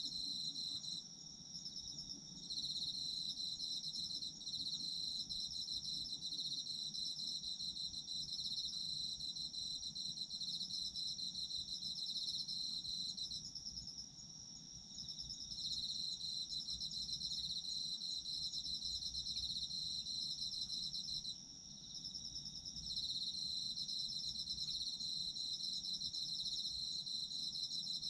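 Autumn crickets trilling: one high trill runs without a break while a slightly lower pulsing trill overlaps it, stopping briefly three times, about a second in, around the middle, and about three quarters of the way through.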